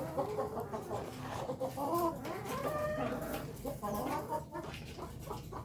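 Several kampung chickens clucking and calling over one another, short pitched notes overlapping throughout.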